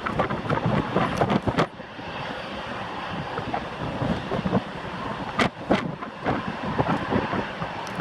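Strong wind gusting against the microphone in irregular thumps and rumbles, with an airliner's engine noise underneath.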